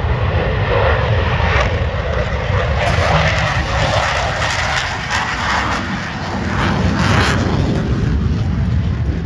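EA-18G Growler's twin General Electric F414 jet engines at maximum afterburner on takeoff: a loud, steady jet noise with crackling, swelling twice as the jet passes.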